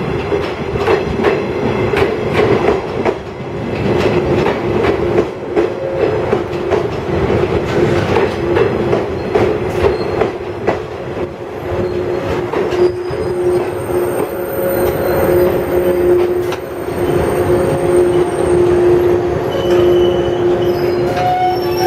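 JR 107 series electric train rolling slowly into the station, its wheels clicking over rail joints and points. A steady squeal from the running gear grows stronger about halfway through as the train slows.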